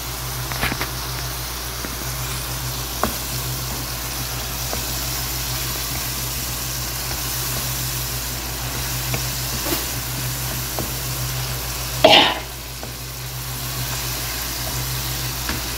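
Tomato, onion and green-chilli masala sizzling in oil in a wok, stirred and scraped with a wooden spatula, with a few light clicks. There is a brief louder scrape about twelve seconds in, over a steady low hum.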